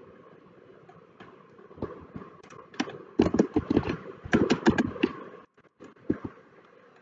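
Typing on a computer keyboard: a scatter of key clicks, with a fast run of keystrokes about three to five seconds in.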